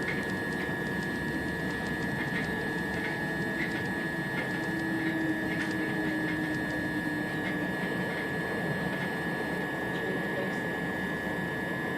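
Inside a passenger train carriage while it runs along the line: a steady rumble of the wheels and running gear, with a constant high whine and scattered light clicks from the track.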